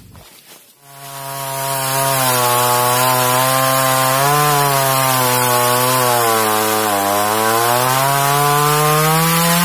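Chainsaw running at high speed, cutting into a coconut trunk. It builds up about a second in, and its pitch sags and recovers as the cut loads it, then climbs near the end.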